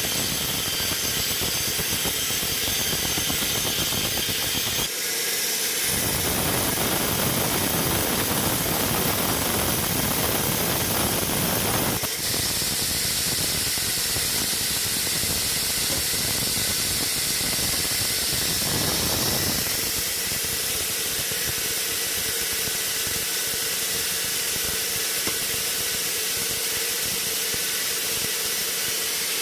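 Sawmill machinery running steadily with a hissing noise. From about six seconds to about nineteen seconds a fuller, heavier noise joins in, then drops back.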